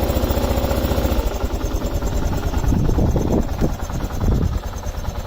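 2001 Kawasaki KLR650's big single-cylinder engine idling shortly after a cold start, with an even beat of firing pulses. About a second in, a steady hum drops out and the running turns rougher and more uneven.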